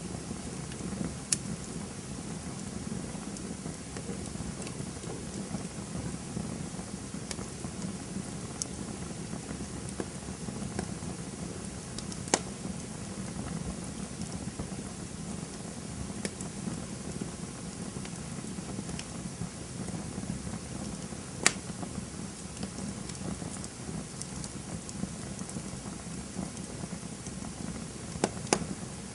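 Campfire burning with a steady crackle and scattered small ticks, broken by a few sharp pops: one about a second in, louder ones around twelve and twenty-one seconds in, and two close together near the end.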